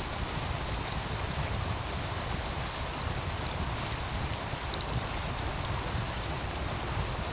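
Wood fire crackling, with scattered sharp pops, the loudest a little before five seconds in, over the steady rush of a meltwater stream and a low rumble.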